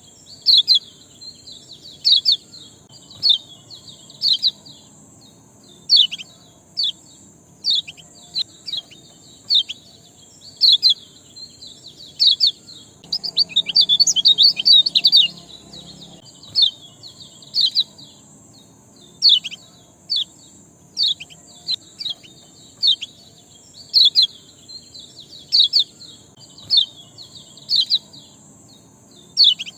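Small songbird giving short, sharp 'ciak' chirps, each a quick downward-sweeping high note, repeated about once or twice a second, with a dense burst of chirping about halfway through. It is a chirp recording of the kind played to provoke quiet caged birds into singing. A steady high hiss runs underneath.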